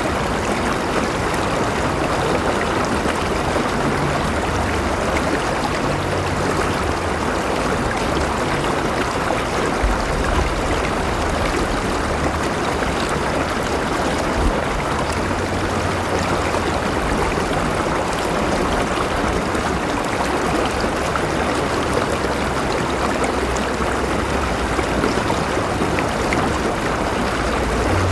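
River water flowing steadily over rocks, a continuous rushing and babbling with a low rumble underneath.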